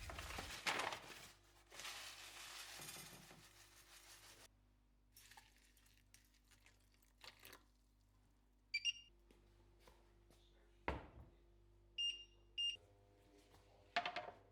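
Faint handling sounds in a small room: some rustling early on, then a few sharp knocks and two brief high-pitched clinks.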